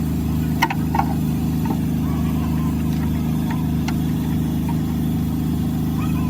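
An engine idling steadily, with two sharp metallic knocks about half a second and a second in, and a few fainter ticks later.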